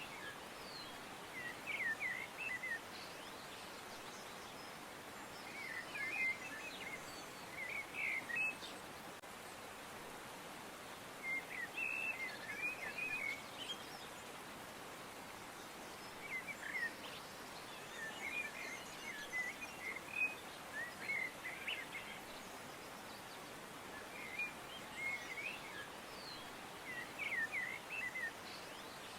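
Small birds chirping in short clusters of quick notes every few seconds, over a steady background hiss.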